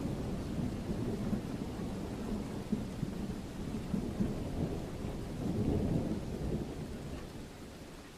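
Rolling thunder rumbling over steady rain. The rumble swells a little past the middle, then dies away near the end, leaving the rain.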